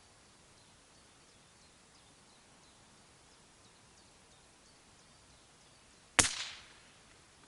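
A single sharp .22 LR rifle shot about six seconds in, with a short echoing tail.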